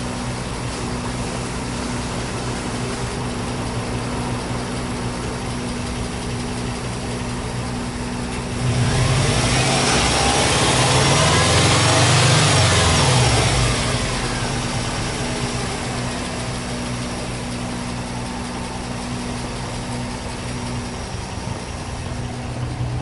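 Subaru Impreza WRX's turbocharged flat-four (boxer) engine idling steadily, then revved once with the car standing still: the pitch climbs from about nine seconds in, peaks a few seconds later and falls back to idle by about fourteen seconds.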